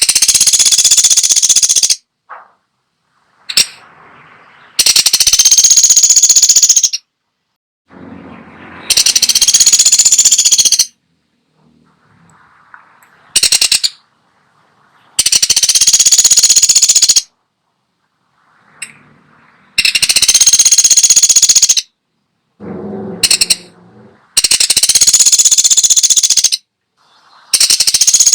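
A woodpecker (the 'pelatuk sampit' of Indonesian bird-keepers) giving loud, rapid rattling bursts of about two seconds each, repeated roughly every four to five seconds, with fainter rustling and a few short clicks in between.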